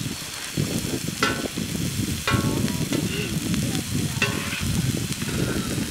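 Sliced onions and green peppers sizzling in oil on a large iron griddle, stirred and scraped with a perforated metal skimmer ladle. Three short higher-pitched sounds stand out, about one, two and four seconds in.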